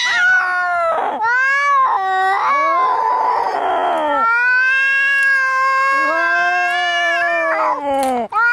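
Angry cats yowling and caterwauling as in a fight: several short rising-and-falling yowls, a harsh noisy hiss-snarl about three seconds in, then one long wavering yowl.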